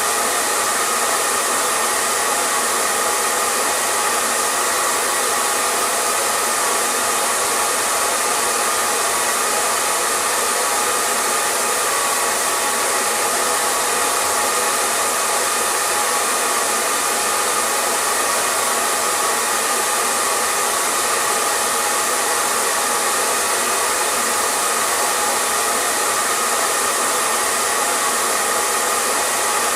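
Electric hair dryer running continuously on a steady setting: an even rush of blown air with a faint steady whine from the motor.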